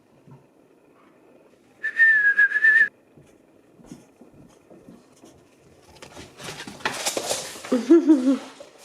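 A person whistling one steady, slightly wavering note for about a second, calling a dog. Several seconds later, a louder stretch of rustling noise with a short wavering sound near the end.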